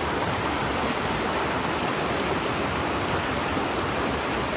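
Waterfall and rushing stream water, a steady dense roar of falling and splashing water.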